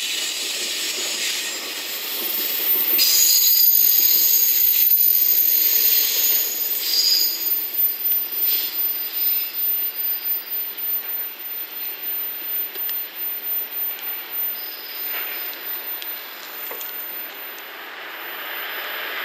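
Container freight wagons rolling past on the rails, with a high wheel squeal in the first half. The wheels then clack in a regular rhythm over the rail joints as the tail of the train goes by, and the sound fades as the train draws away round the curve.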